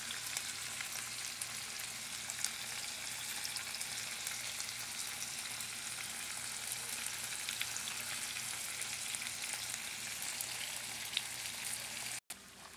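Teriyaki marinade sizzling as it is poured into a hot pan of seared chicken thighs and sautéed bell peppers: a steady frying hiss with small crackles. It cuts off abruptly near the end and comes back quieter.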